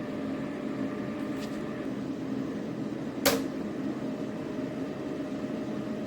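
Small PTC space heater's fan running with a steady hum, with a sharp click about three seconds in.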